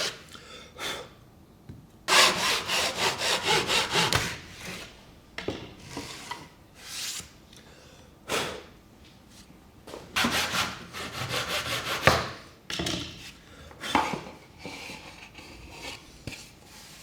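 Hand saw cutting soft Japanese cedar in quick back-and-forth strokes, about four or five a second. The cutting comes in two runs of about two seconds each, with a few single strokes between.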